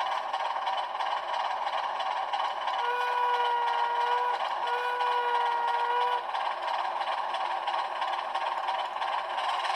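LokSound V5 sound decoder in an HO-scale ALCO HH600/660 diesel switcher, playing its diesel engine sound through a small sugar cube speaker, thin and running steadily. About three seconds in the model's horn sounds two long blasts.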